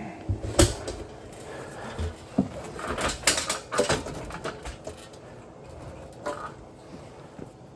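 Knocks and clatters of hard objects being handled: one sharp knock about half a second in, a quick run of clatters around three to four seconds, and a last knock past six seconds.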